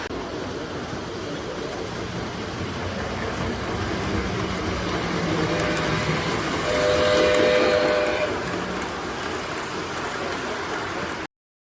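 Lionel LionChief 2-4-2 O-gauge model steam locomotive running on the track with a steady rumble of wheels and motor. Its onboard speaker sounds a steam whistle about five and a half seconds in, then louder for about a second and a half. The sound cuts off abruptly near the end.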